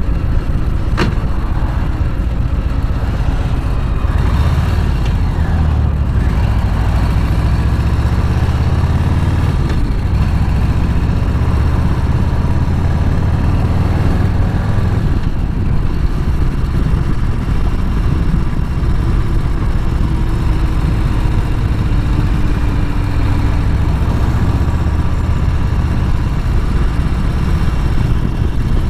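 Harley-Davidson V-twin motorcycle engine running steadily with a low rumble that grows a little stronger from about four to fourteen seconds in.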